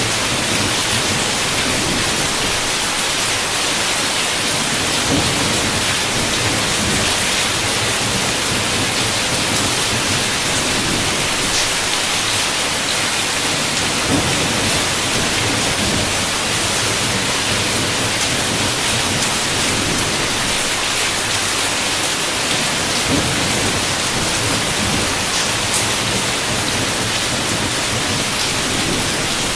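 Heavy rain falling steadily in a dense, even hiss, with a few sharper drop taps here and there.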